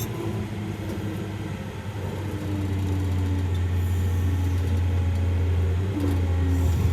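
A large engine running with a steady low drone, growing louder about two to three seconds in.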